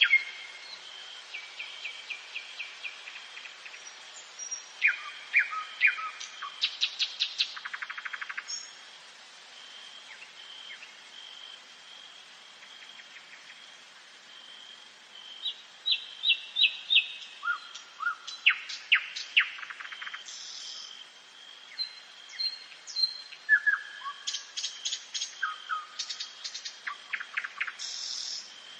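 Nightingale singing in separate phrases of fast repeated notes and rattling trills, with a quieter pause in the middle. A faint steady high note runs underneath.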